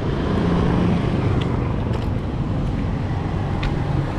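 Road traffic: motor vehicles running, a steady low rumble with a faint engine hum.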